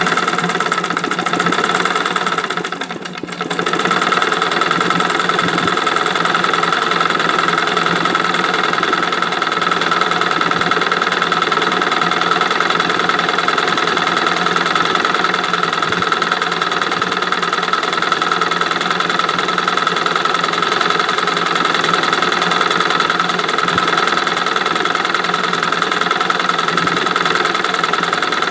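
Sewing machine stitching embroidery at a fast, steady speed, with a brief slowdown about three seconds in.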